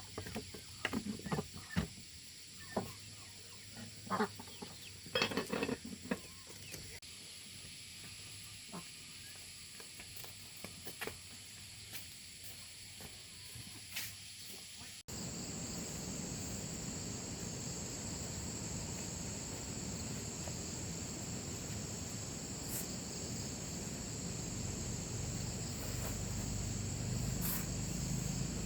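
Outdoor rural ambience. First come scattered knocks and a few short fowl-like calls. After an abrupt cut about halfway, there is a steady, high-pitched insect drone.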